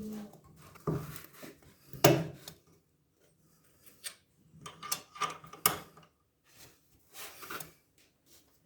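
Irregular knocks and clacks of hard objects being handled in a small room, the loudest about two seconds in.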